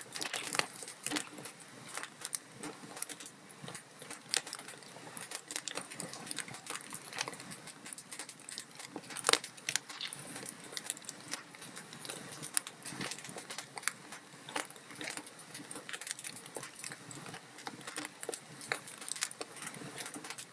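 Wood fire crackling: logs burning in a fireplace give off irregular snaps and pops over a soft hiss, with one sharper pop about nine seconds in.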